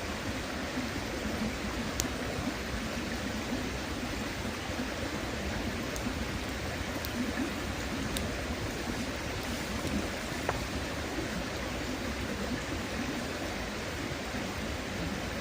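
Steady rush of a shallow river flowing, with a few sharp pops of a wood campfire crackling about 2, 6, 7 and 8 seconds in.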